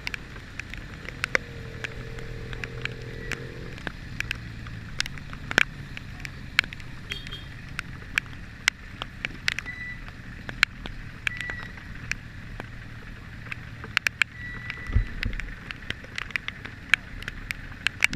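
Engine of a moving vehicle running steadily on a rainy ride, with frequent sharp ticks throughout, typical of raindrops striking the camera or its housing.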